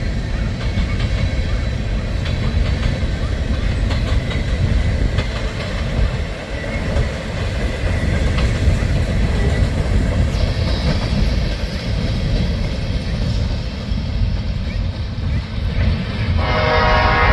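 Train passing close by: a steady heavy rumble with the wheels clicking over the rail joints. Near the end a train air horn starts to sound, several tones at once.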